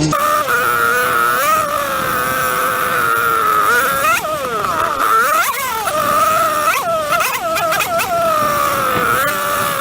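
Yamaha Banshee 350's twin-cylinder two-stroke engine running under way at a steady pitch, with several quick rises and falls in pitch from throttle blips in the second half.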